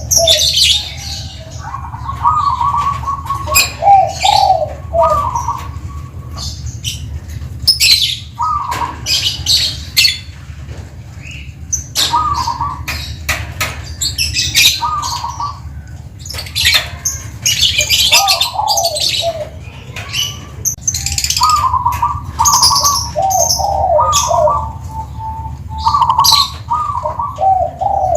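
Zebra dove (perkutut) cooing, phrase after phrase of short rolling notes repeated every couple of seconds. Higher, sharper chirps from other small birds and a steady low hum run beneath.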